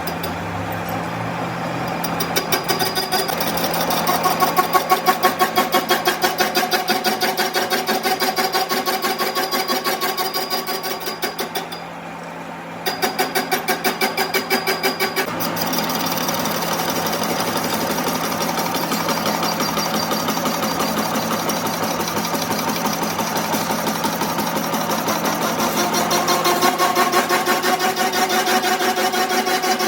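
A motor-driven machine running steadily with an even rhythmic pulse, dipping in level for a couple of seconds about eleven seconds in before picking up again.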